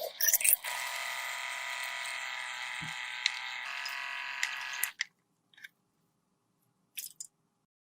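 A small electric motor buzzing steadily for about four seconds, then cutting off suddenly, with a few light clicks before it and two brief clicks afterwards.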